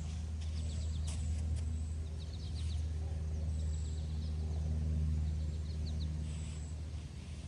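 Birds chirping in short bursts a few times over a steady low hum, with a faint click about a second in.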